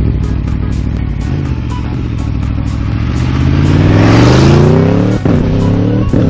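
Aprilia Tuono V4 Factory's 1100 cc V4 engine pulling hard under acceleration, its pitch climbing steadily for several seconds. The sound cuts out sharply for a moment as it shifts up a gear, then climbs again, with a second shift near the end.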